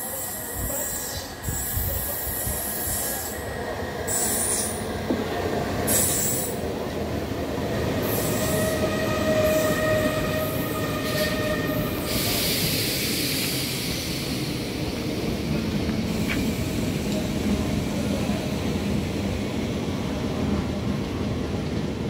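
A local passenger train running past over the rails: a steady rumble of wheels and coaches that grows louder about a second and a half in, with drawn-out high squeals of the wheels on the rails around the middle.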